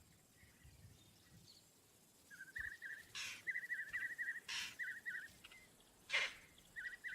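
Vervet monkey alarm calls: short, sharp calls repeated about every second and a half, warning of an approaching predator. From about two seconds in, a run of rapid, wavering high chirping notes joins them.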